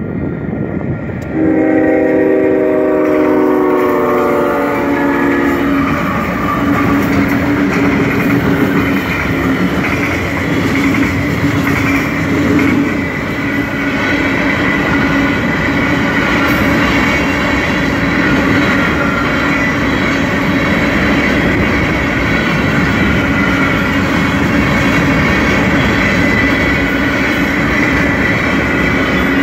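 A Union Pacific diesel freight locomotive's horn sounds a chord for about five seconds as the train reaches the crossing. Then comes the steady rumble and clatter of a long string of mostly empty covered sand hopper cars rolling past.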